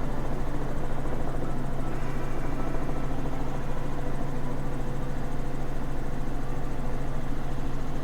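Robinson R44 Raven II helicopter in cruise: a steady drone of its piston engine and rotor, with a low hum and a fast low pulsing underneath.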